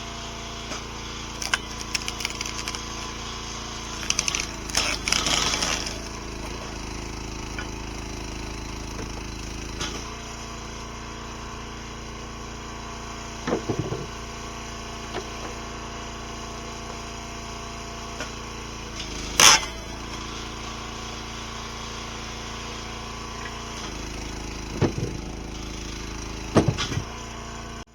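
RuggedMade 737 log splitter's engine running steadily while logs are split, the wood cracking and splintering several times; the loudest crack comes about two-thirds of the way through.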